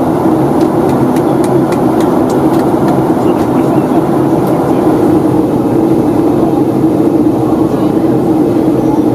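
Steady cabin noise inside a Boeing 757-200 in flight: a constant drone of airflow and its Rolls-Royce RB211 engines, with a few faint clicks in the first two or three seconds.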